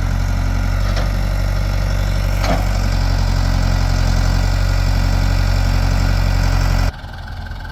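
Backhoe's diesel engine running steadily with a low hum, with a couple of faint knocks; the sound cuts off abruptly near the end, leaving a quieter engine noise.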